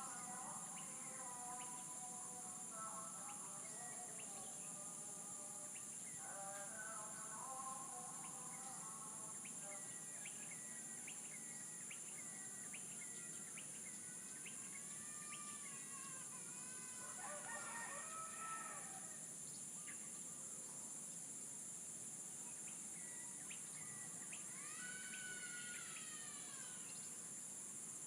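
Outdoor morning ambience: a steady high insect drone throughout, chickens or roosters calling in the first several seconds, and songbirds chirping in quick repeated notes and arching calls later on.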